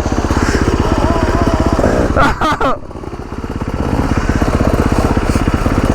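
Motorcycle engine running close by at a steady, pulsing idle. About two and a half seconds in, a short, higher sound that bends in pitch cuts in over it for half a second.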